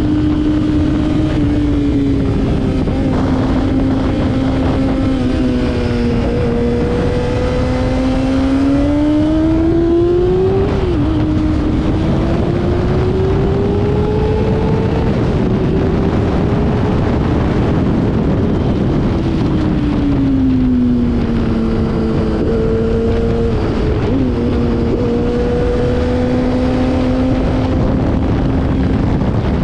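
Motorcycle engine under way on a race track, its pitch rising and falling as it speeds up and slows. Twice there is a sudden drop in pitch at a gear change, and heavy wind rush runs under the engine note.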